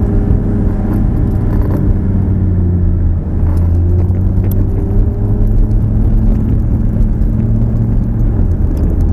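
Lamborghini Gallardo's V10 engine heard from inside the cabin, running steadily at low track speed with a deep drone. The level dips briefly about three seconds in, then the pitch rises slightly.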